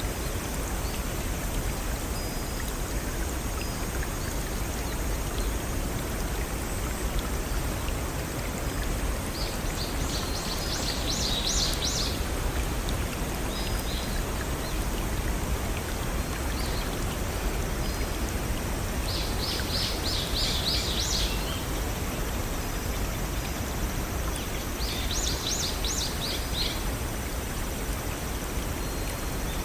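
Steady rush of a small forest stream and waterfall. A songbird sings three short phrases of rapid high notes, about ten, twenty and twenty-five seconds in.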